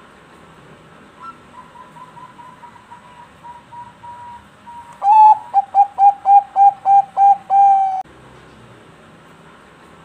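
Zebra dove (perkutut bangkok) singing: a soft run of short cooing notes, then about five seconds in a loud, fast series of coos that ends in a longer drawn-out note.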